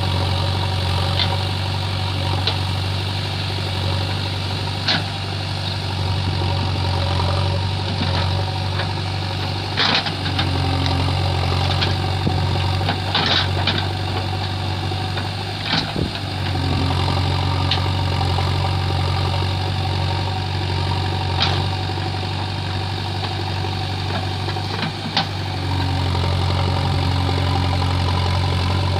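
JCB 3DX backhoe loader's diesel engine running steadily, with scattered sharp knocks every few seconds.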